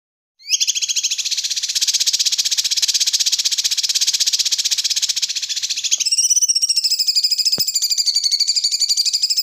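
A high, fast, rapidly pulsing animal trill, played as song-tutor material for training a white-rumped shama; about six seconds in it changes to a wavering, warbling trill.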